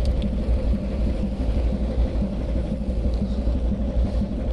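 Steady low rumble of a ship's engine running, heard on deck.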